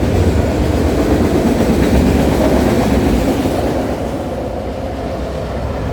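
Freight train cars rolling past, a steady rumble and clatter of steel wheels on the rails that eases slightly near the end as the last of the train goes by.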